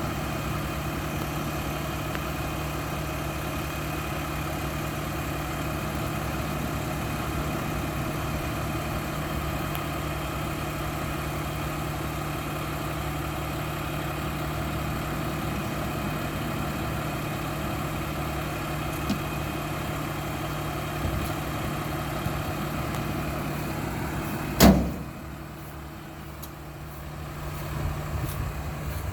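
Diesel engine of a Mack LR garbage truck idling steadily. About 25 seconds in there is a single loud bang, and after it the sound is quieter for a few seconds.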